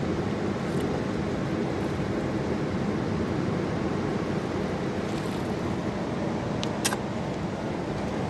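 Fast-flowing mountain river rushing steadily, with one short click about seven seconds in.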